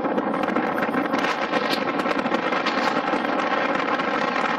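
Train running through a tunnel: a continuous dense rattle and clatter of wheels on rail and carriage running gear.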